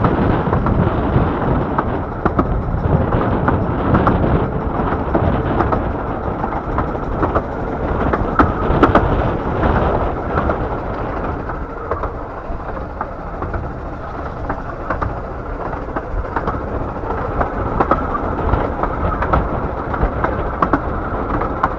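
A 15-inch-gauge miniature railway train running along the track, heard from aboard a passenger coach: a steady loud rumble with scattered sharp clicks and knocks.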